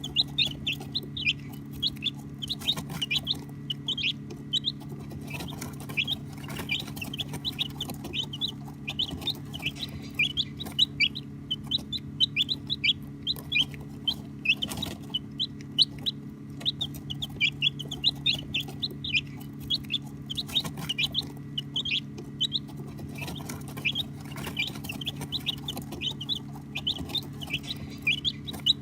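A group of baby chicks peeping continuously: many short, high, shrill chirps, often falling in pitch, overlapping several a second, over a steady low hum.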